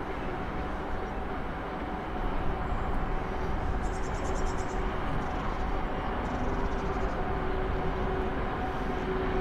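A train running past: a steady running noise with two held humming tones, growing louder about two seconds in.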